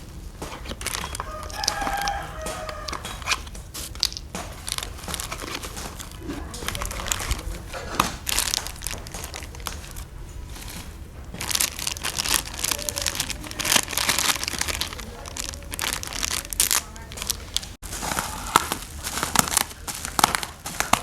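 Irregular hand-work noises of scraping, crinkling and sharp clicks, with a rooster crowing in the background about two seconds in.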